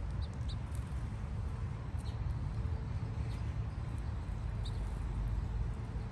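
Small birds giving a few faint, short, high chirps over a steady low rumble.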